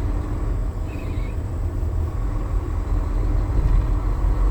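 Steady low rumble of a car driving on a freeway: engine and road noise.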